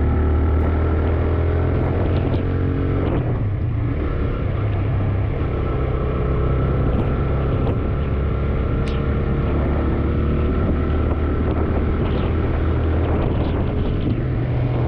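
TVS Raider 125's single-cylinder engine running as the motorcycle rides along. Its note climbs over the first few seconds, then drops about three and a half seconds in, and runs on fairly steady.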